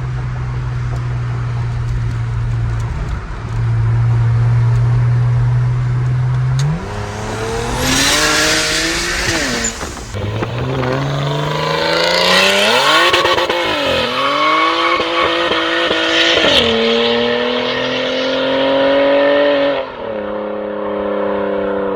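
Big single turbo BMW 335 straight-six accelerating hard through the gears on its custom exhaust with resonators and mufflers. The engine holds a steady note for about six seconds, then its pitch climbs and drops back at each gear change, with a loud rushing hiss during the hardest pulls. Near the end it settles into a steady cruise.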